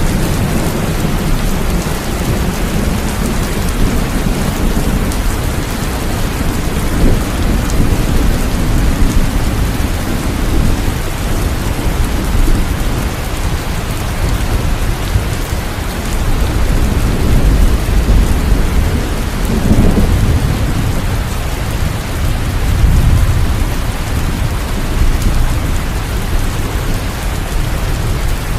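Heavy rain falling steadily, with a deep rolling rumble of thunder underneath that swells and fades several times.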